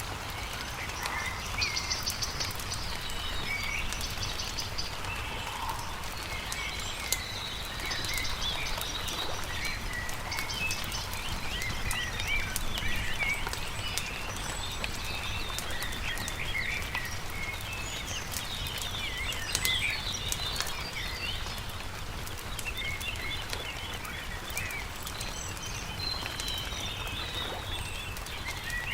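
Several songbirds chirping and trilling continuously over the crackle and pop of a campfire, with a steady low rumble underneath.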